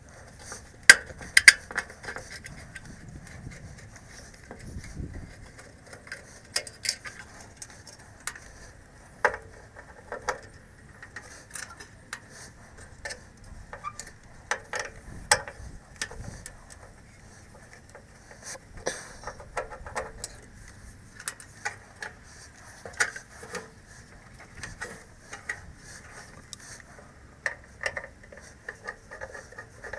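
Irregular metallic clicks, taps and knocks of hand tools and metal parts being handled during disassembly, spaced unevenly over a faint steady hiss.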